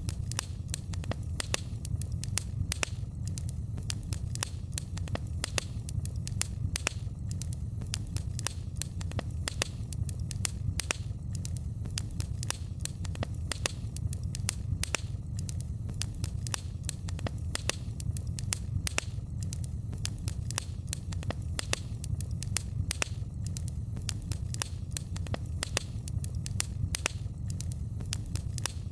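Wood fire in a fireplace crackling: many sharp, irregular snaps a second over a steady low rumble.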